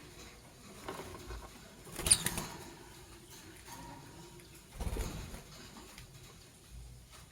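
Lovebirds shuffling and scratching about, a soft patter of small feet and rustling, with a short sharp sound about two seconds in and another rustle near five seconds.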